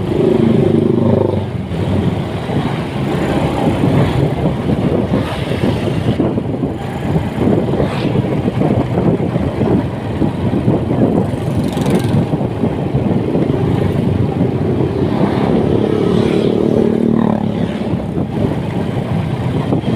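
Motorcycle riding along the road: its engine running under a steady rush of wind noise, with the engine note coming up clearer near the start and again about three-quarters of the way through.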